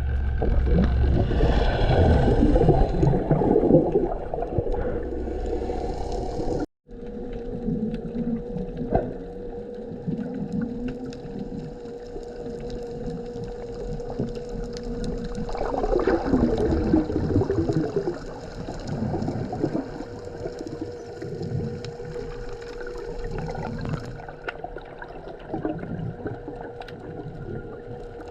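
Muffled underwater sound of a diver in the water: gurgling bubbles and sloshing, with a steady faint hum. There is a short break about seven seconds in.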